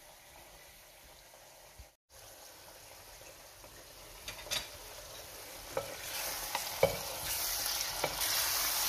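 Pork belly and shrimp paste (bagoong) sizzling in a pot, the hiss growing steadily louder through the second half. A wooden spatula stirs and knocks against the pot about four times.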